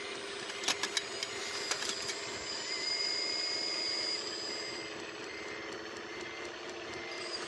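Radio-controlled construction models running: a steady motor whine, with several sharp clicks in the first two seconds and an evenly pulsing tone in the second half.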